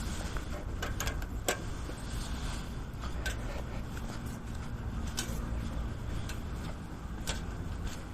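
Campfire of cat litter burning in a fire pit, crackling with scattered sharp pops, the loudest about a second and a half in, again near the middle and near the end, over a steady low rumble.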